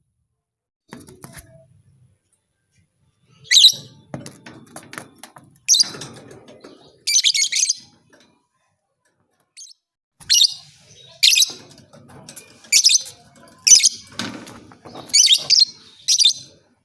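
Lovebird giving shrill, harsh chirps in short bursts. After a quiet start, a few come in the middle, then a quick run of them in the second half, with softer clicks and rustling between calls.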